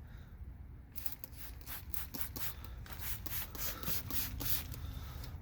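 Handheld spray bottle misting water onto a car's painted panel: a rapid series of short trigger sprays, starting about a second in and coming quicker and stronger in the second half.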